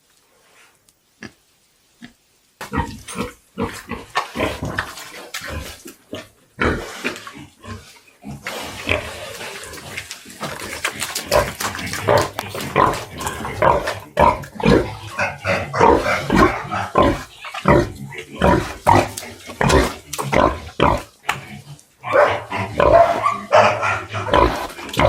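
Pigs grunting, many short overlapping calls that start suddenly about two and a half seconds in, after a few faint knocks.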